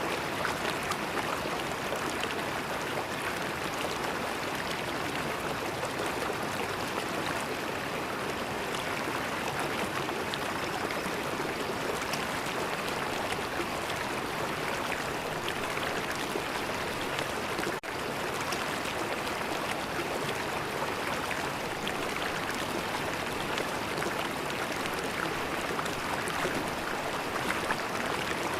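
River water flowing and gurgling over its bed, a steady even rush. The sound drops out for an instant about two-thirds of the way through.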